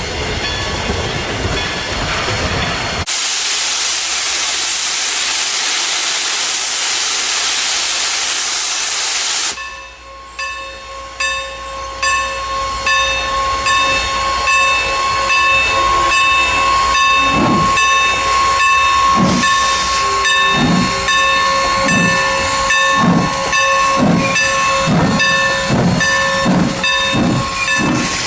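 Steam locomotive: a loud, steady hiss of released steam that starts and stops abruptly, lasting about six seconds. Then a steady high whine, and the locomotive's exhaust chuffs begin and gradually quicken as it starts to pull away.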